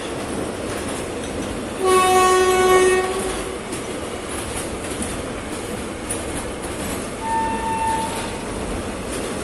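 Freight train's loaded flat wagons rolling past with a steady rumble of wheels on rail. A train horn sounds loudly for about a second and a half, about two seconds in. Later a shorter, fainter, higher horn note sounds.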